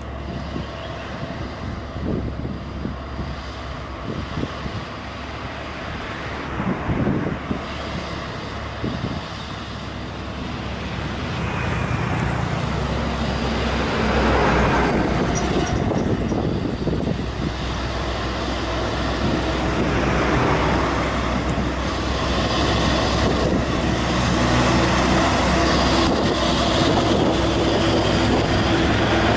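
Heavily loaded truck's engine running as it climbs a steep hill, with scattered knocks in the first part, growing louder about halfway through.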